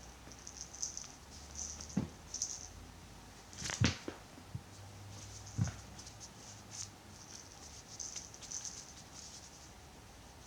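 Cats playing with a toy mouse: a few soft knocks and scratches, the loudest a little under four seconds in. Under them a faint high chirping or rustling repeats about twice a second.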